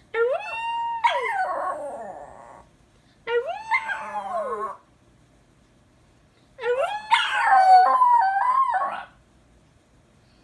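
A small dog howling three times, each howl rising and then falling in pitch. The last howl is the longest and loudest.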